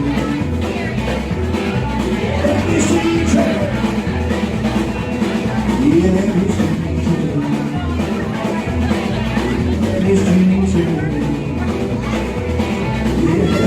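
Live rockabilly band playing without words: electric guitar lead with bending notes over a bass line and a drum kit keeping a steady beat with regular cymbal strokes.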